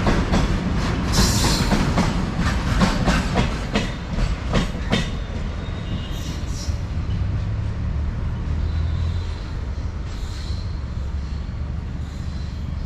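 Freight train of tank wagons rolling past, its wheels clacking over rail joints in quick knocks for the first five seconds or so, then settling into a steadier low rumble with faint wheel squeal.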